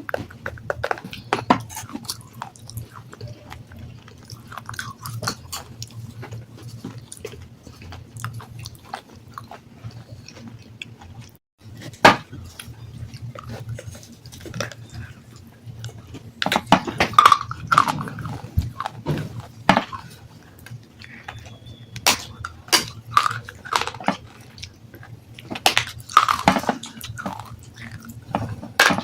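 Close-up biting and chewing of hard, dry sandstone: dense sharp crunches and crackles, louder in clusters during the second half. There is a brief dropout about eleven seconds in.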